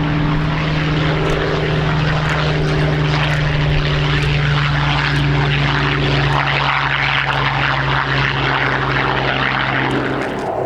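Piston-engined warbirds at take-off power rolling down the runway: a loud, steady drone of engines and propellers.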